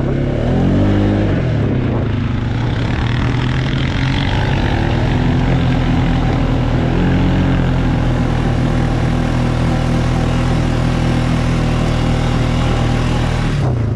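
ATV engine running while riding. Its pitch dips and comes back up in the first couple of seconds, then holds fairly steady.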